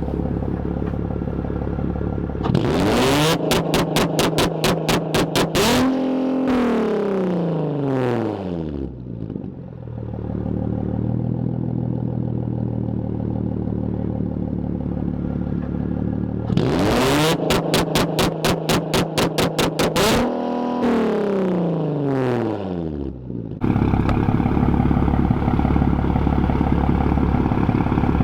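Infiniti G35 Coupe's 3.5-litre V6 through a straight 3-inch Tomei single-exit exhaust, idling and then revved twice. Each time it is held high with a rapid stutter for a couple of seconds, then falls back down to idle. Near the end the note steps up louder and stays steady.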